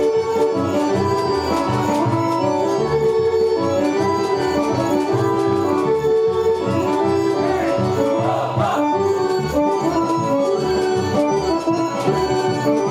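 Traditional Serbian folk dance music played on accordion, with a steady, even beat.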